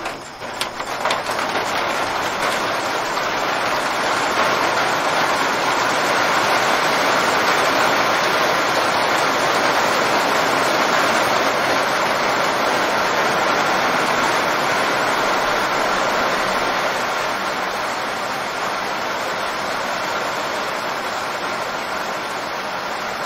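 Heavy rain sound effect, a steady dense hiss that swells in over the first two seconds and eases slightly in the second half.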